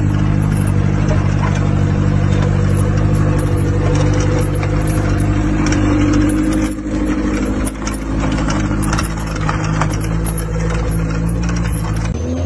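Car engine running at a steady speed, its drone holding one even pitch, with light rattling over it; it cuts off abruptly near the end.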